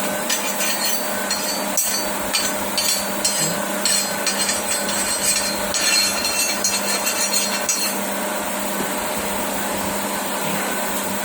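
Scraping and clattering of cut mild steel pieces being handled, over a steady machine hum. The scraping stops about eight seconds in, leaving only the hum.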